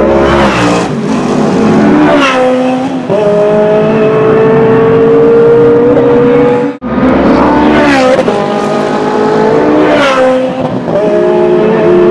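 Ferrari V8 race car accelerating hard away through the gears, the engine note climbing and then dropping back at each upshift. It cuts off abruptly near the middle, then a second run of rising revs and upshifts follows.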